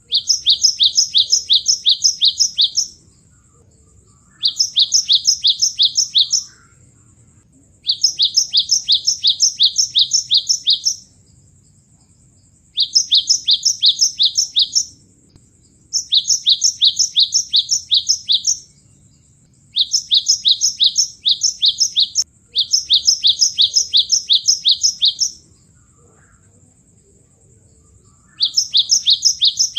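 Cinereous tit (gelatik batu) calling in bursts of rapid, evenly spaced high chirps, each burst lasting two to three seconds, repeated about eight times with short pauses between.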